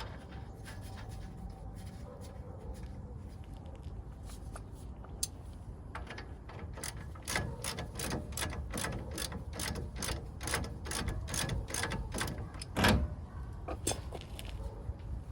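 Hand ratchet wrench clicking in a steady run, about three clicks a second, as a fastener is worked on the truck's front axle, with one louder metal knock near the end.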